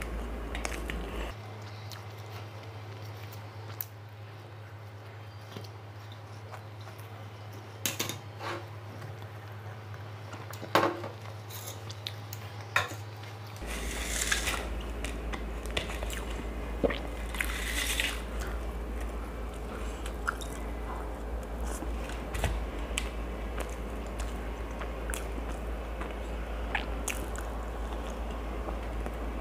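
Close-up eating sounds of pav bhaji: soft, wet chewing and biting of butter-soaked pav bread dipped in bhaji, with scattered sharp clicks and clinks of fingers and bread against the steel plates and bowls.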